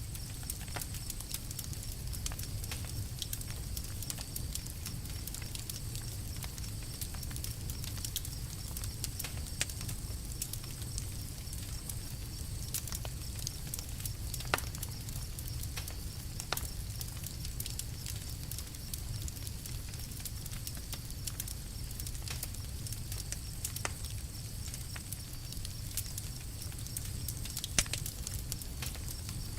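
Campfire crackling: scattered sharp pops and snaps over a steady low rumble, with one louder pop near the end.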